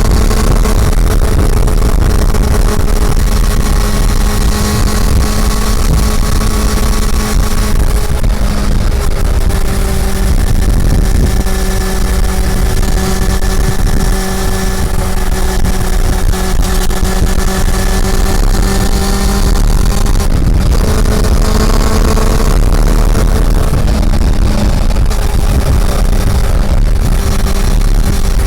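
Honda CB400 Super Four's inline-four engine running steadily while the bike is ridden, over a heavy low rumble. The engine note shifts about eight seconds in, then briefly drops away about twenty seconds in before it settles again.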